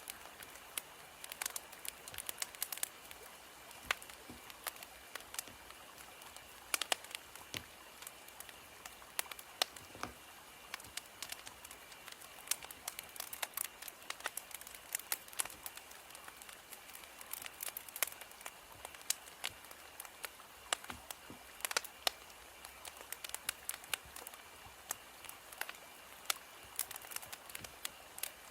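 Wood fire crackling: a steady low hiss with irregular sharp pops and snaps, several a second.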